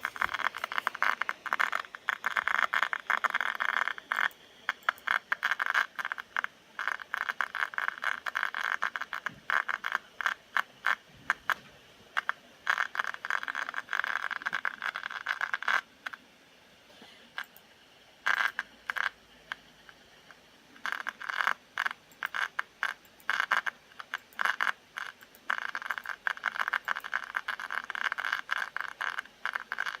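A 2015 MacBook Pro's cooling fan crackling: rapid, irregular clicks that come in dense clusters, easing off for a couple of seconds about two-thirds of the way through. The fan is failing and needs to be replaced.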